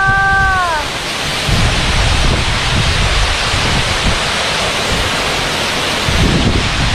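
Waterfall's steady rush of falling water, with wind buffeting the microphone in low gusts. A held voice-like note ends with a falling glide within the first second.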